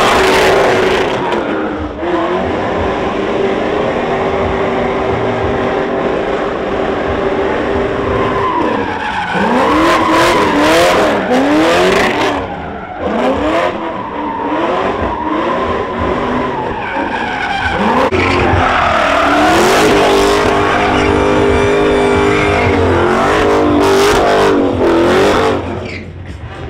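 A car doing a burnout: the engine is held at high revs with the tyres squealing, then revved up and down several times in the middle, then held high again.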